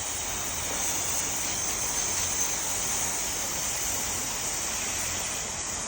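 Water spraying steadily from a hose in an even hiss, rinsing salt off a sailboat's deck.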